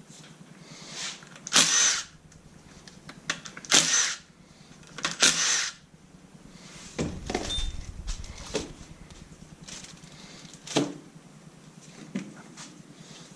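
Power tool run in three short bursts, each about half a second, with lighter clicks and knocks of metal parts in between.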